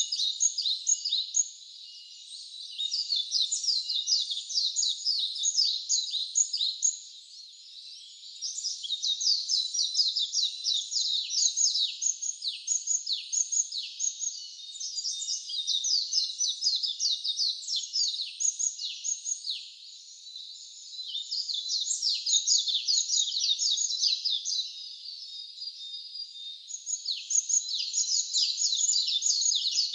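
A songbird singing long, fast twittering phrases of rapid chirps and falling notes, each run lasting several seconds, with short pauses between them.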